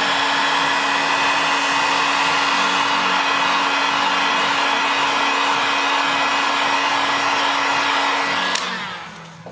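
Hot-air blower running steadily, a rushing air noise with a constant motor whine. It switches off about eight and a half seconds in and the sound dies away.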